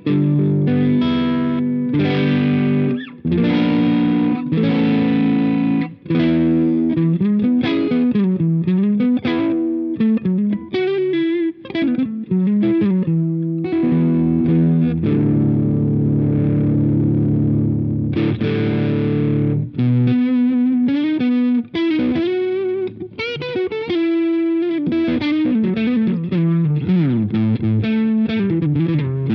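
Electric guitar played through the Jeds Peds AndyChad overdrive pedal, a kit clone of the Nobels ODR-1, with a driven tone. It opens with chords, moves to single-note lead lines with string bends and vibrato, and lets a chord ring for several seconds about halfway through.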